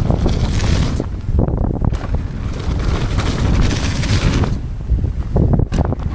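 Mountain bike descending a wet, muddy trail at speed: wind rushing over the microphone, the tyres running through mud and water, and frequent knocks and rattles from the bike over rough ground.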